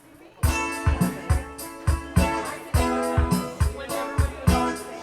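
A live rock band kicking into a song's instrumental intro about half a second in: guitar chords over bass and drums, with a steady kick-drum beat a little over two per second.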